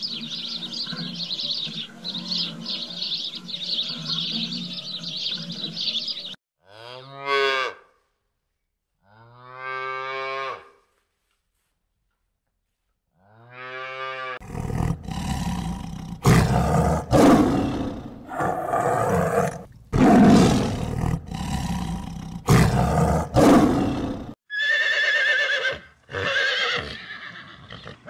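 A flock of Eurasian tree sparrows chirping, then three drawn-out cattle moos with silent gaps between them. About halfway through come several loud, rough roaring calls lasting around ten seconds, and near the end horses whinny.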